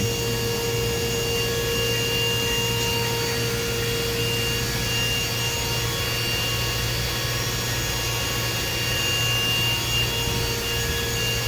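DMG Mori DMC 1035V vertical machining center thread milling aluminium, with high-pressure coolant spraying through the spindle. It runs steady and even: a few held tones over a constant hiss.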